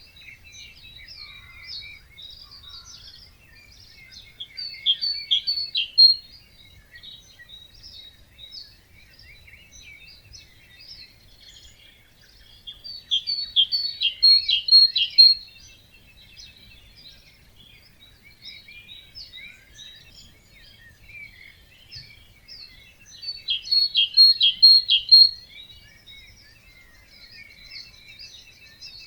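Songbirds singing: one close bird repeats a short song of rapid high notes three times, about every nine seconds, over quieter chirping from other birds.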